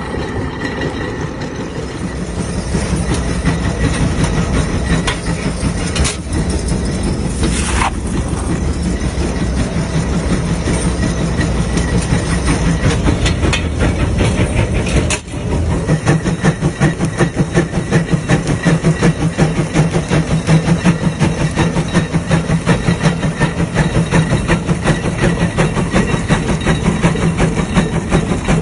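Large steam traction engine running, its exhaust beating in a steady rhythm. There is a brief hiss of steam about eight seconds in. After a short break about halfway through, the beat becomes stronger and more even.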